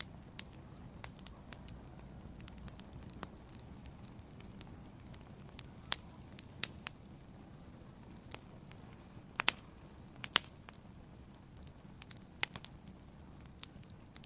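Wood fire burning in a fireplace: a low steady hiss and rumble of the flames with scattered sharp crackles and pops, the loudest two about nine and ten seconds in.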